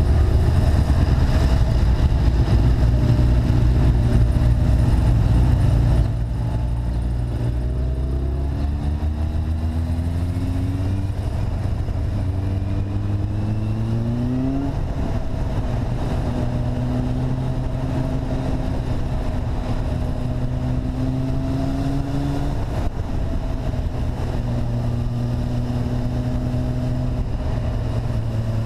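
Vehicle engine heard through an onboard camera with wind noise: it accelerates through three gears, the pitch rising and dropping at each shift, then runs at a steady cruising speed.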